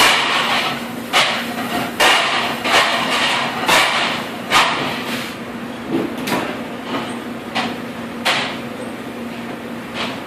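Irregular sharp knocks and clatter, about one or two a second, the kind made by dishes and racks handled at a commercial dishwasher, over the steady hum of the running machine. The knocks thin out in the second half.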